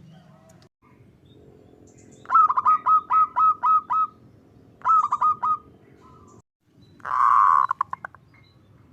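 Zebra dove (perkutut) calling: a quick run of about eight short hooked notes, a shorter run of about four, then a loud rolling note that trails off into rapid clicks.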